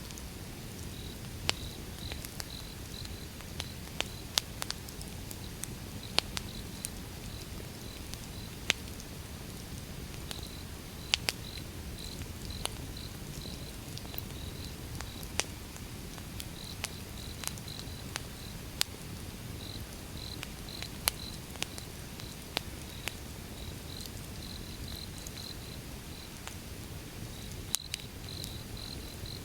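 Wood fire burning: irregular sharp crackles and pops from the logs over a low steady rumble, with a high, pulsing chirp running in the background.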